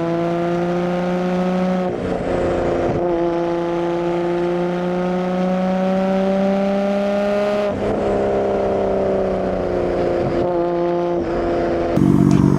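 Nissan Skyline R32 GT-R's twin-turbo straight-six exhaust under acceleration, recorded from a mic at the rear of the car. The pitch rises through the gears with shifts about two seconds in and near eight seconds, then eases off with the pitch falling. A louder, rougher engine sound cuts in near the end.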